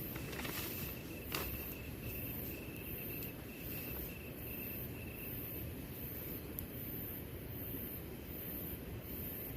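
Insects chirping in a steady, even rhythm of high-pitched pulses, a little under two a second, over a low steady background noise. A single sharp click sounds about a second in.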